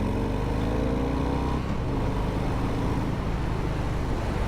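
Harley-Davidson Breakout's V-twin engine running under way, heard from the rider's seat over steady wind and road noise. The engine note rises slightly over the first second and a half, then holds steady.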